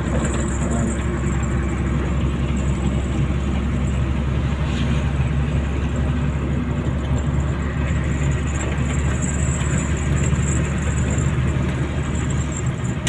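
Steady vehicle engine and road noise, a constant low hum with even noise above it, with no break or change.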